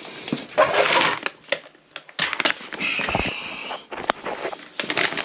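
Handling noises from plumbing work: irregular scraping and rustling with scattered clicks, including a longer scrape lasting about two seconds midway and a sharp click just after it.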